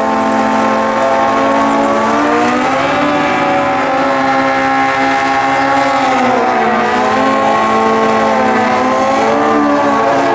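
Drag-racing sport bike doing a burnout: its engine is held at high, steady revs that rise and dip slowly as the rear tyre spins.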